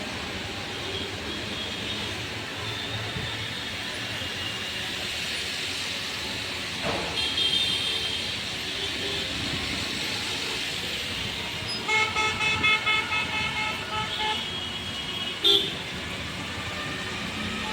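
Road traffic with vehicle horns honking over a steady traffic din: a short honk about seven seconds in, a quick string of rapid honks about twelve seconds in, and one more short toot near the end.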